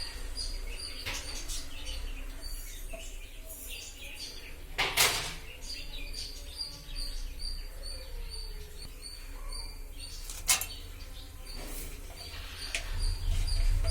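A bird chirping over and over at an even pace, about three short high chirps a second, over a low hum, with a few sharp knocks, the loudest about five and ten seconds in.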